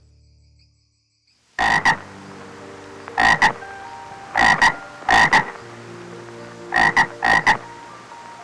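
An animal croaking in short double croaks, six pairs in all, starting about a second and a half in and repeating every second or so.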